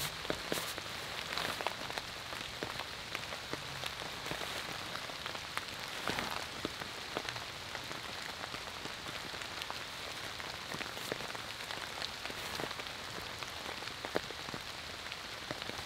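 Steady rain falling, with short, sharper drop sounds standing out now and then.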